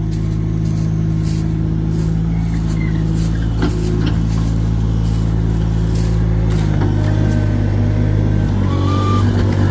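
Heavy vehicle engine running steadily at idle, its note changing about two-thirds of the way through and again near the end.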